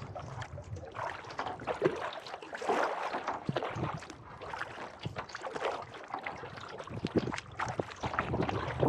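Kayak paddle blades dipping and pulling through lake water, stroke after stroke, with repeated splashes and drips.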